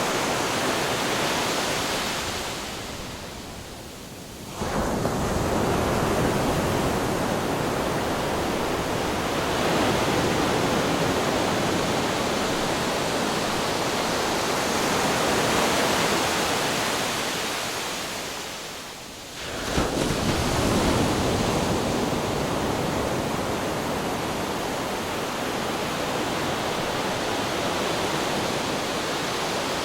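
Ocean waves crashing against rocks: a steady wash of surf that ebbs away twice, a few seconds in and near the middle, then surges back sharply as the next wave breaks.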